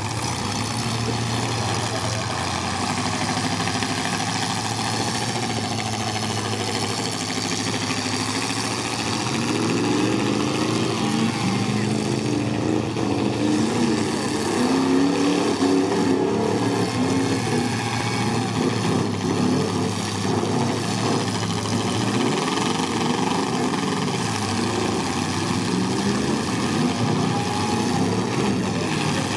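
Several stock V8 demolition derby cars running together, their engines revving up and down as they push against each other, with the revving strongest around the middle.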